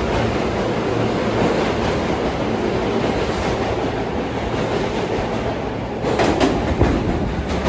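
New York City subway train running on the track: a steady rumble with its wheels clacking over rail joints, and a few sharper clacks near the end.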